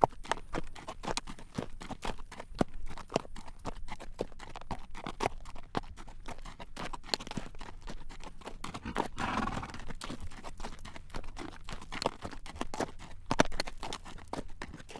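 A horse's hooves clip-clopping at a walk on a road as it draws a carriage: a continuous run of sharp, uneven clacks.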